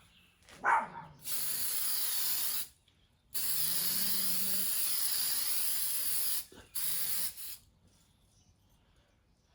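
Aerosol spray paint can hissing in three bursts, laying on a thin coat: one of about a second and a half, a longer pass of about three seconds, then a short one.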